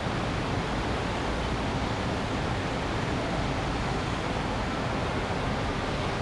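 Steady city ambience: an even wash of background noise, heaviest in the low end, with no single event standing out.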